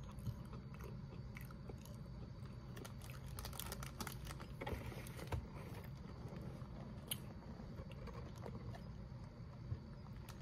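Faint crunching and chewing of a Kellogg's Toasteds cracker in the mouth: scattered small crisp crunches over a low steady hum.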